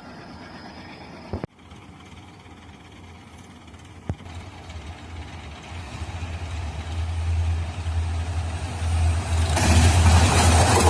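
An Indian Railways train approaching: the locomotive's low engine drone grows steadily louder over several seconds, and near the end loud rushing wheel and track noise sets in as it reaches the microphone. A sharp click sounds about a second in.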